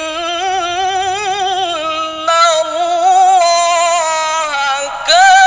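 A male Qur'an reciter's voice in melodic tilawah, holding a long ornamented vowel with a fast wavering vibrato. It breaks off about five seconds in, and a new phrase begins.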